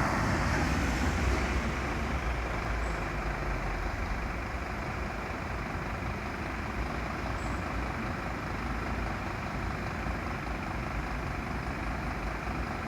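Steady low rumble of vehicle engines and road traffic noise, easing slightly in level after the first few seconds.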